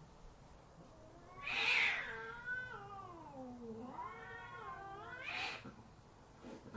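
Domestic cat meowing: a long drawn-out meow that slides down in pitch, starting about a second and a half in, then a second meow that rises and stops near the end.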